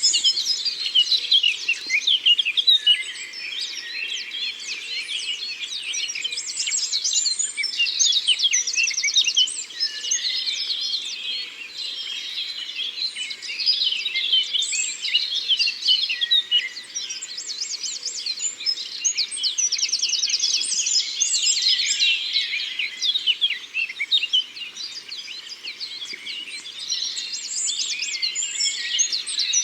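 A dense chorus of many songbirds singing at once in woodland: overlapping chirps, whistles and short rapid trills that keep recurring, over a faint background hiss.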